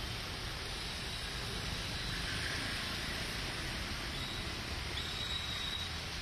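Steady hiss of heavy rain falling, with the low rumble of road traffic beneath it.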